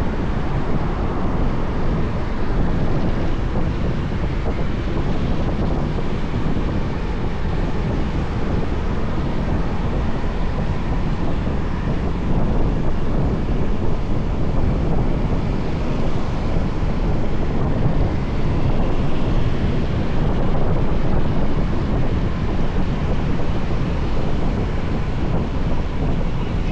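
Steady wind rushing over the microphone of a moving motorbike, with the motorbike's engine and road noise underneath.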